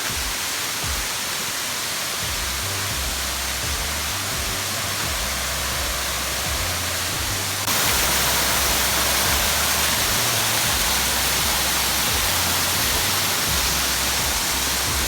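Waterfall's falling water making a steady rushing hiss, which becomes louder and brighter about halfway through.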